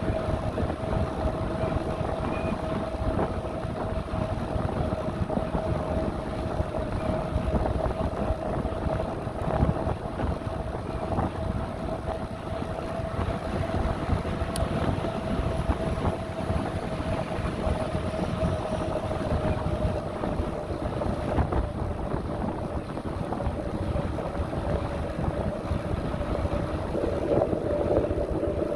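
Wind buffeting the microphone and tyre rumble from a bicycle being ridden, with a steady whine holding one pitch that sags slightly toward the end.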